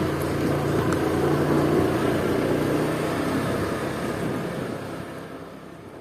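A motor vehicle's engine running steadily with road noise, fading away over the last few seconds.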